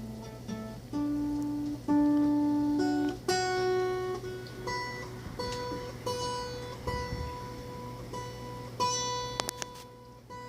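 Acoustic guitar picked note by note: a few different single notes, then one note plucked again and again, while the player works out the song's key.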